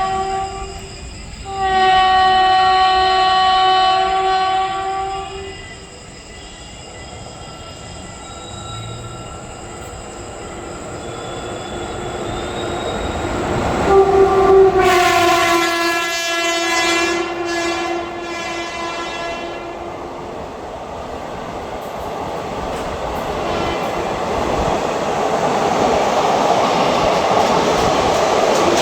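An Indian Railways express train's locomotive horn sounds in three blasts: a short one ending just after the start, one of about three and a half seconds soon after, and a longer one of about six seconds midway. The rumble and wheel clatter of the train then grow steadily louder as it approaches and passes.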